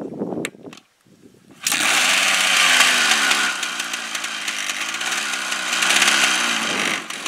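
Suzuki 400 single-cylinder two-stroke dirt bike engine being kicked over and catching about a second and a half in, then revved up and down repeatedly with a raspy two-stroke note, easing back briefly near the end before running on.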